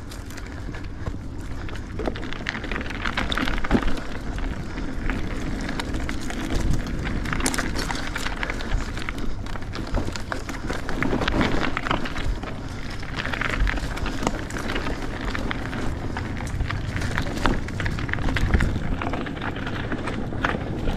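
Hardtail mountain bike ridden over a rough dirt trail: a steady rumble of tyres on the ground with frequent knocks and rattles as the bike jolts over bumps and roots.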